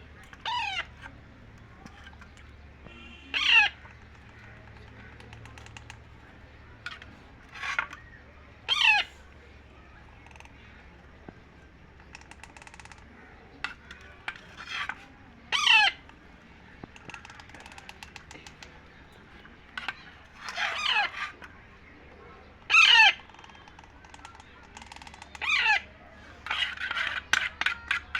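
Baby parrot giving repeated short, wavering begging calls while being fed, about a dozen over the stretch, at uneven intervals.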